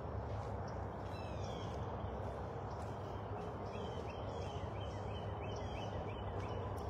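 A songbird singing a quick run of short, falling whistled notes, about three a second, from a little past the middle until near the end, with a few fainter notes about a second in. Under it lies a steady outdoor rumble and hiss.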